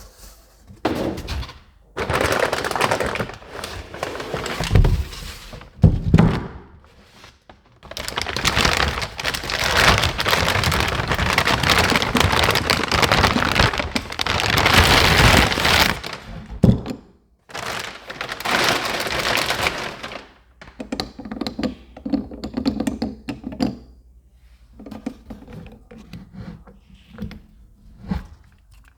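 Handling noise from a heavy metal truck engine mount bracket being moved about and set down: repeated thunks and knocks, with long stretches of dense scraping and rustling in the middle.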